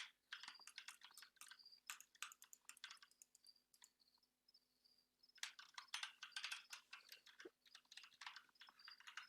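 Computer keyboard keys clicking in fast typing runs, with a lull of about two seconds in the middle before the typing picks up again.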